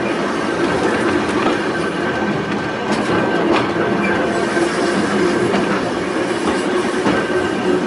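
A Volks Electric Railway car running along its narrow-gauge track with a steady hum and a few sharp clicks of the wheels over rail joints.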